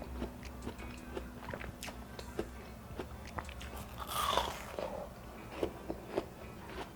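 Close-miked biting and chewing of cold seedless watermelon: wet crunches and small sharp clicks, with one louder, longer juicy bite about four seconds in.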